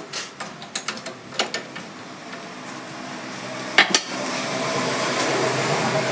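Metal parts and tools clinking and knocking in quick succession, with a louder strike near four seconds in. After that a steady rushing noise with a faint hum takes over.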